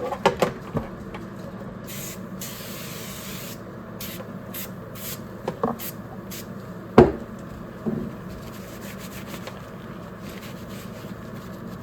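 Spray cleaner hissing from an aerosol can in one long burst and several short bursts onto a dirty CB radio, with rubbing as it is wiped. A sharp knock comes about seven seconds in.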